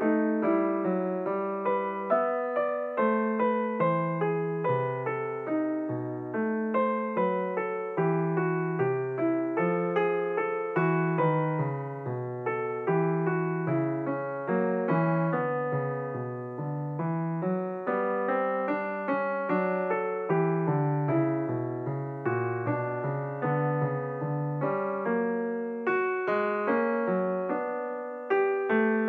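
Solo piano music, a continuous run of struck notes and chords, two or three a second.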